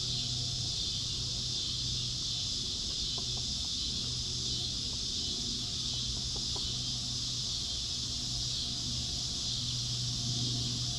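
Steady, high-pitched drone of an insect chorus, unbroken throughout, over a steady low hum, with a few faint ticks in the middle.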